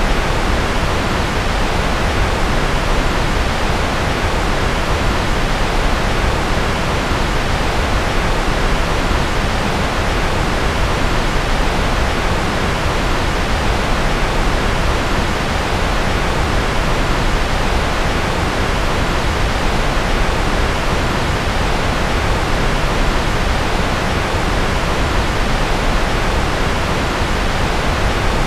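Steady synthetic white noise: an even, unchanging hiss across all pitches.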